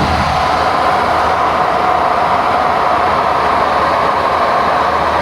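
Steady rushing cabin noise on a Boeing 737NG flight deck at cruise, the airflow and air-conditioning hum, running evenly without change.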